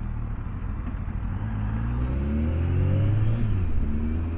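BMW K1200S inline-four engine pulling under acceleration, its pitch rising for about a second and a half, dropping at a gear change about three and a half seconds in, then rising again. Heard through a microphone inside the rider's helmet.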